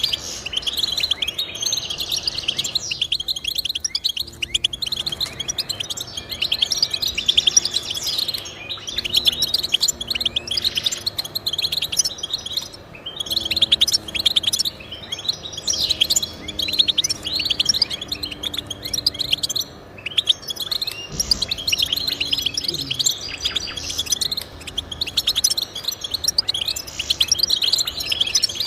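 Finch song: a continuous stream of rapid, high twittering chirps and trills, pausing only briefly a few times.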